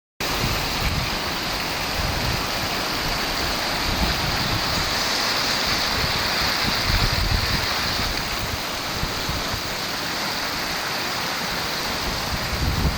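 Steady rushing of spring water from the Halbori springs stream, with low rumbling that comes and goes underneath.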